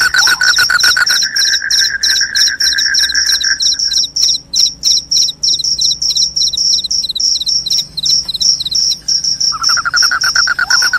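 Crickets chirping in a fast, even, high-pitched rhythm of several chirps a second, with a lower pulsed trill alongside that drops out about four seconds in and returns near the end.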